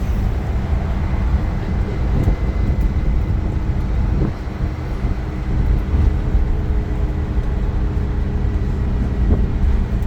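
Iveco Crossway LE bus's Cursor 9 six-cylinder diesel running, heard from on board as a loud steady low rumble, with a thin steady whine joining about two seconds in.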